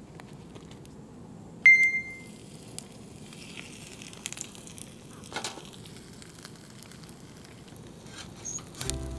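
Hash brown frying in oil in a stainless steel frying pan: soft sizzling with scattered crackles. About two seconds in, a sudden short bright ding rings out.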